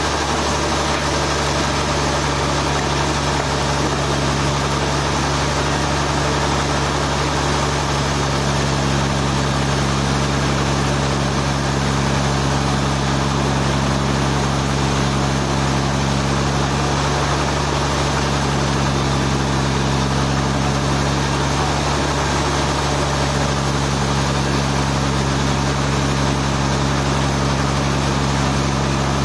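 Sawmill engine running steadily with a constant low hum, with no change in pitch or level.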